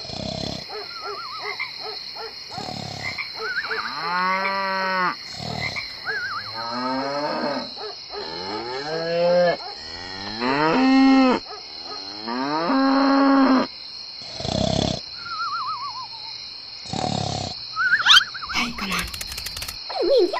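Cattle mooing: a series of separate calls, some rising and falling in pitch, over a steady high-pitched hum.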